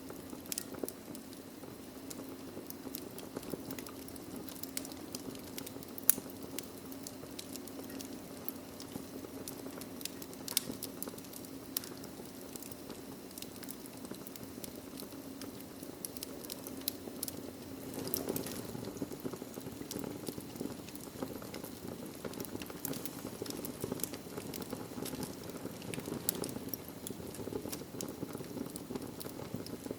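Wood fire burning in a fireplace: a steady low rush with frequent sharp crackles and pops, one louder pop about six seconds in.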